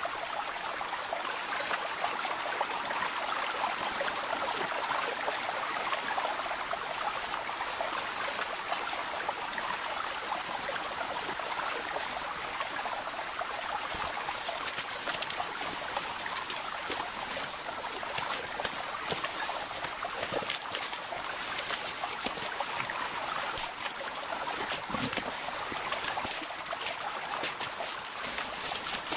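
Steady heavy rain falling in a forest, a dense even hiss with a steady high-pitched whine running above it.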